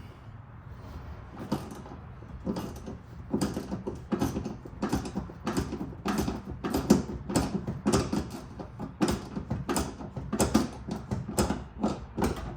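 Hand work on the car: a string of irregular mechanical clicks and knocks, sparse at first and then about two to three a second from a few seconds in.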